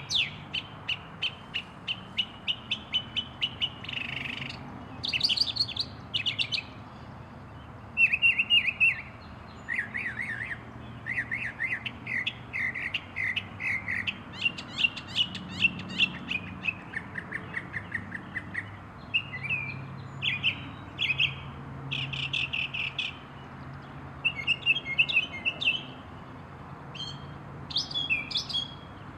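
Northern mockingbird singing: a long run of varied phrases, each a quick series of repeated notes, switching to a new phrase every second or two.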